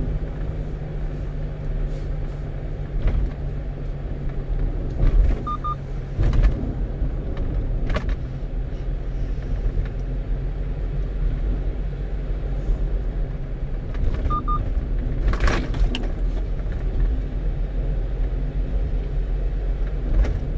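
1-ton truck driving on the road, heard from inside the cab: a steady engine drone with road noise and a few knocks. A short double beep sounds twice.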